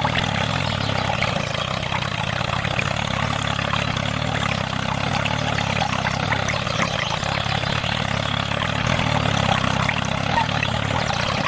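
Small DC motor of a homemade miniature machine running steadily, with a low hum and a busy high-pitched whirr.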